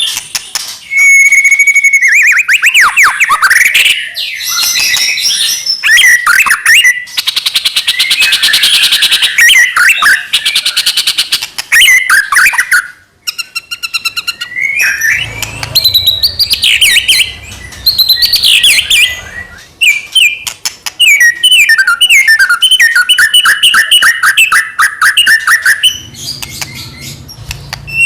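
White-rumped shama (murai batu) singing loudly: a dense run of varied whistled phrases, rapid trills and fast chattering note series, with a brief pause about halfway through.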